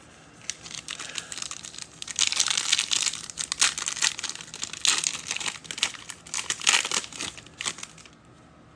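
Card-pack wrapper crinkling and tearing as it is opened by hand: a run of crackly rustles that starts about half a second in and stops shortly before the end.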